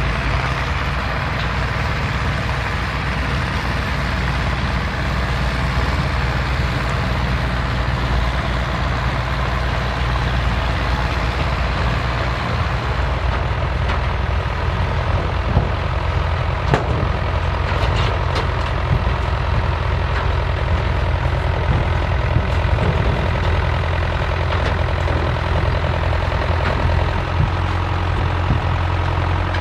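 Vintage farm tractor engine running steadily under a continuous low engine hum. A few sharp clicks come a little past halfway.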